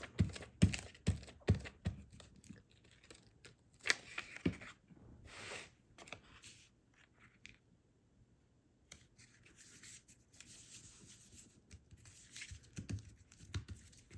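Paper being handled and glued: a run of light taps and clicks in the first few seconds, then soft rubbing swishes as glue is spread and the paper piece is smoothed down onto the card.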